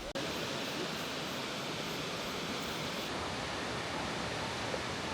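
Steady rushing roar of falling water from Angel Falls, an even noise with no break.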